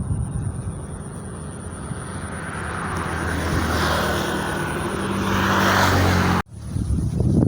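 A motor engine running and growing steadily louder as it approaches, then cut off abruptly about six and a half seconds in.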